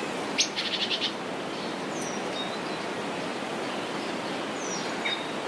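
Steady rushing of river water, with songbirds calling over it: a rapid trill about half a second in, then a few short, high falling whistles.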